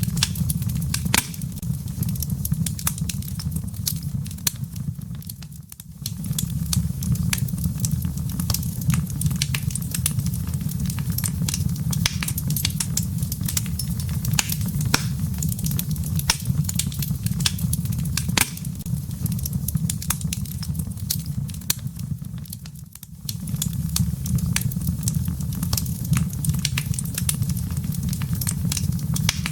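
Wood fire burning in a fireplace: dense crackling and sharp pops over a low, steady rumble of flames. The sound fades out briefly twice before picking back up.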